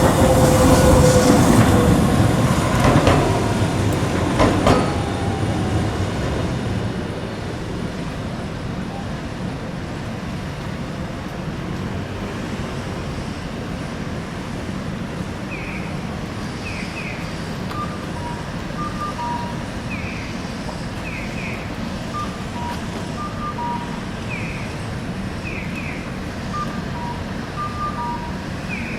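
Hiroden streetcar running past with a squealing tone from its wheels, fading away over the first several seconds into steady street hum. From about halfway, a pedestrian crossing signal sounds every few seconds: short falling chirps alternating with two-note cuckoo-like beeps.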